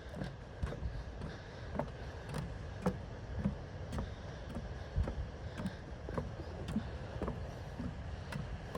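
Footsteps of someone walking at a steady pace, a little under two steps a second, over a low rumble of wind on the microphone.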